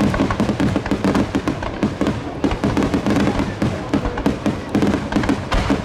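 Fireworks shells bursting in quick succession, a dense run of bangs and crackles, over accompanying music.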